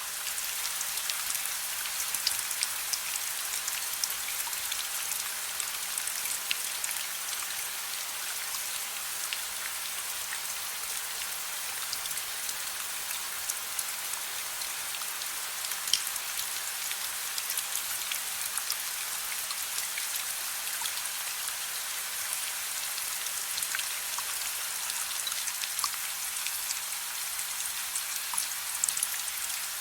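Steady gentle rain: an even hiss with many small, distinct drop hits scattered through it, the odd one a little louder.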